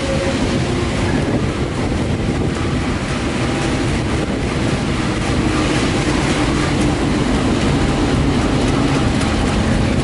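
A diesel-hauled passenger train running, heard close behind its locomotive: the engine's steady drone mixed with the rumble of wheels on the rails. It grows slightly louder after about four seconds.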